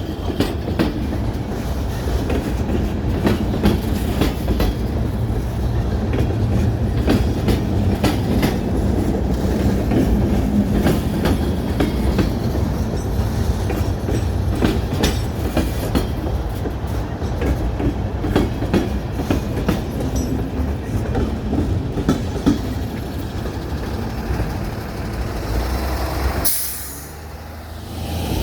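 A train rolling past at close range: a steady heavy rumble with repeated clicks of the wheels going over rail joints. The sound drops off suddenly near the end.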